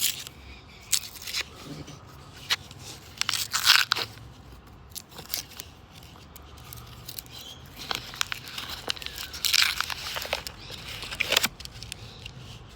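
Paper coin-roll wrappers being torn open and crumpled by hand, crackling in several bursts, the loudest about four seconds in and between nine and eleven seconds in.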